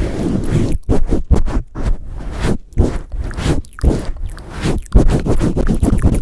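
Close-up microphone handling by hand, pumping and swirling over the mic: a loud, dense rubbing with irregular muffled scrapes and several brief dropouts where the mic is covered.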